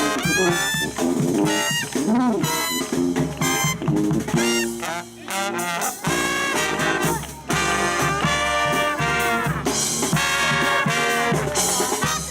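A brass band playing live: trumpets and trombones over drums in short phrases with pitch bends. There is a brief break about seven seconds in, then long held chords.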